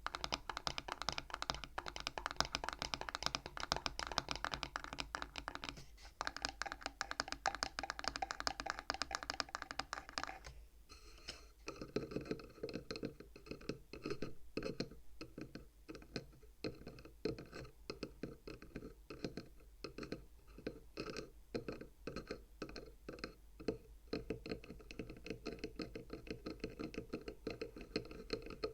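Fingernails tapping rapidly on the wooden frame of a bead abacus. About ten seconds in the taps become slower and deeper-sounding.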